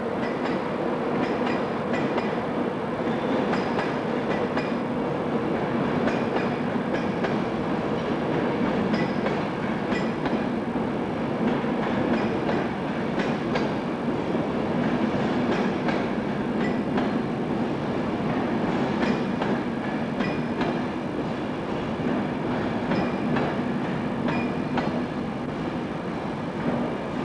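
A train running past on the rails, its wheels clicking repeatedly and irregularly over the track, with a steady low hum underneath, for the whole time.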